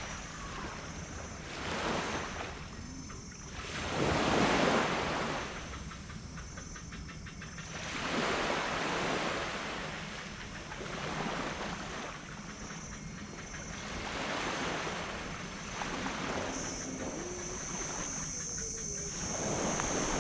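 Small tropical waves washing up on a sand beach, one surge every few seconds, the loudest about four seconds in. About three-quarters of the way through, a steady high whine joins them.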